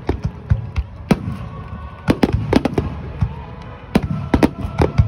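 Aerial fireworks shells bursting in quick, irregular succession: many sharp bangs, some in tight clusters, over a low rolling rumble of echoing reports.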